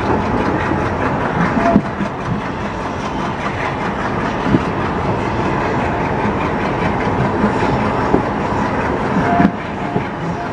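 Passenger train running along the track, heard from on board: a steady rumble of coach wheels on the rails, with irregular louder clacks as the wheels cross rail joints and a couple of brief squeaks.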